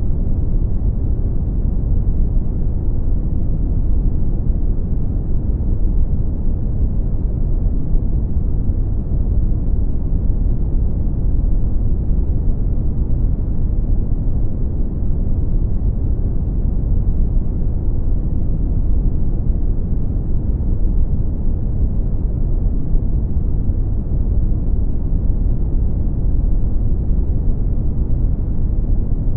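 Brown noise: a steady, deep rushing hiss weighted heavily toward the bass, with little treble, unchanging throughout.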